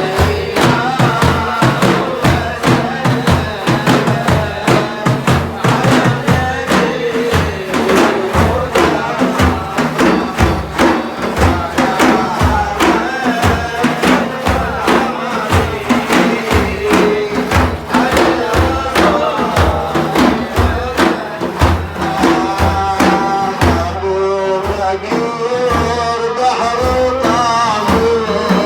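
Sufi devotional music: frame drums beaten in a fast, steady rhythm, with chanting voices over them that come through most clearly near the end.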